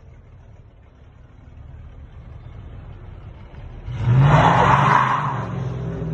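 Car engine running, then revving hard about four seconds in with a loud rush of noise over the engine note, easing off toward the end.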